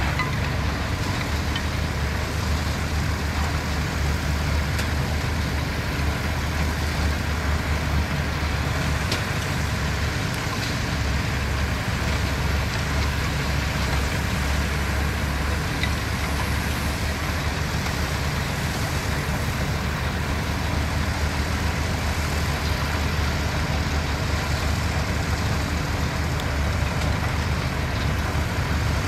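Diesel engines of heavy construction machinery running steadily, a continuous low drone with a few faint clicks.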